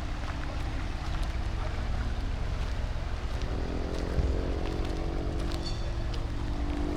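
Motor boat's engine running steadily as it passes, its hum coming in about three seconds in, over wind rumbling on the microphone.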